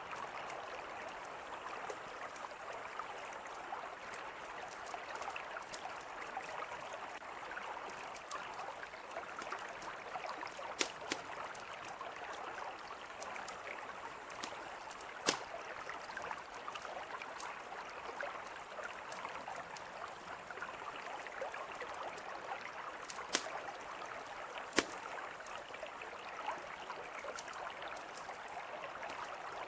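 A river flowing steadily, with a campfire crackling over it: a handful of sharp, scattered pops, the strongest about 11, 15, 23 and 25 seconds in.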